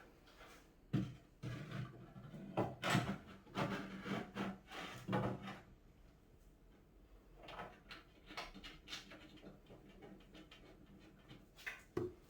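Wooden cat-tower panels and fittings being handled during assembly: a run of knocks, clatters and rubbing for the first half, then scattered lighter knocks, with a few sharp knocks near the end.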